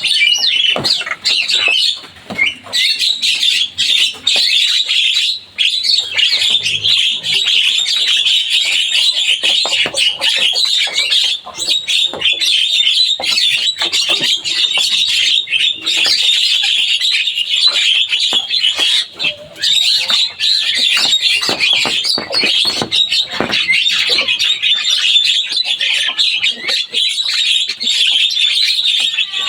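Javan myna (jalak kebo) singing nonstop: a dense, unbroken run of quick chattering notes, squeaks and sharp clicks.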